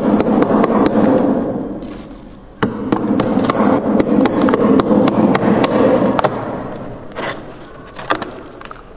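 Freezer frost being scraped, a dense crunching scrape made of rapid small clicks. It comes in two long runs with a short pause about two seconds in, then gives way to quieter scattered crackles near the end.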